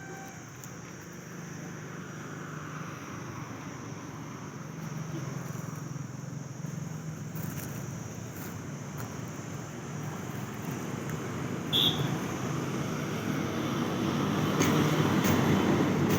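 Sonalika 745 diesel tractor engine running steadily, growing louder toward the end. There is a short high squeak about twelve seconds in.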